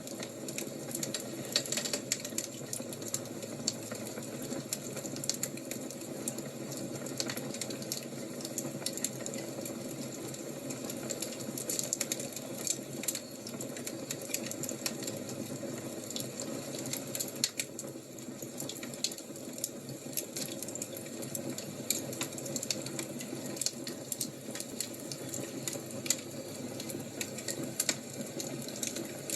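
Wood fire crackling: frequent irregular sharp pops and snaps over a steady low rush of flame.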